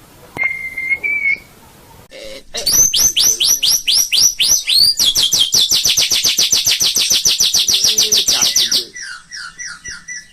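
White-rumped shama (murai batu) singing: a short clear whistle, then a long loud run of repeated falling notes, about six a second, that quickens into a fast trill of about ten notes a second before easing into softer descending notes near the end.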